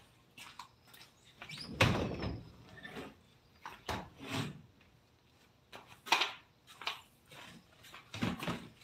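A series of irregular knocks and scrapes of objects being handled, loudest about two seconds in and again about six seconds in.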